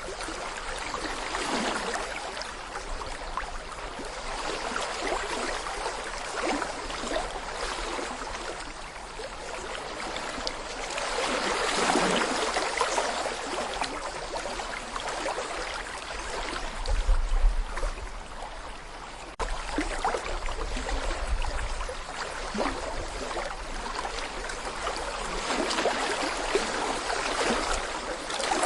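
Small brook babbling and gurgling over stones, a steady rush of water that swells and eases, with fine trickles and splashes through it. Brief low rumbles come about halfway through.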